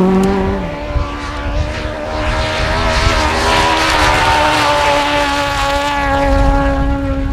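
A historic rally car's engine running hard. Its note drops sharply under a second in, then holds nearly steady, over rough road and tyre noise.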